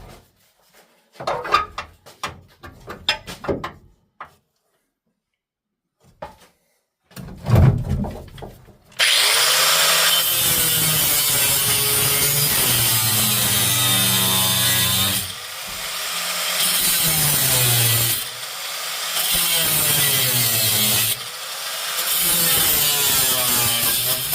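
A few handling knocks and a thud, then, about nine seconds in, a power cutting tool starts up loudly and keeps cutting through the sheet metal of a car's trunk floor. It eases off briefly a few times as the cut goes on.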